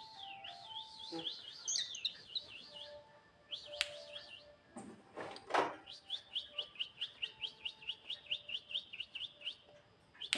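A songbird chirping: scattered high calls, one louder and lower call about halfway, then a fast even run of repeated chirps, about five a second.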